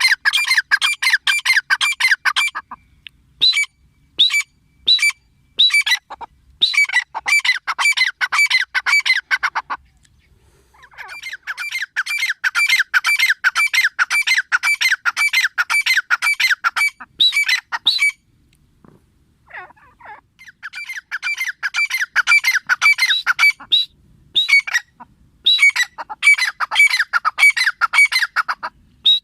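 Female grey francolin calling: long runs of rapid, evenly repeated high notes, about five or six a second, broken by short pauses and a few spaced single notes.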